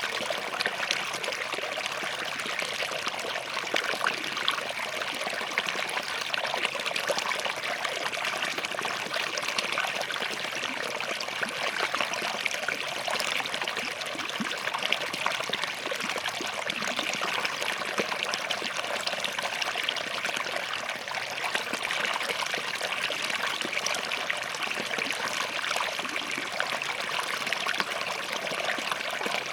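Small forest stream running steadily over and between rocks, a continuous even rush of water with fine splashing and trickling.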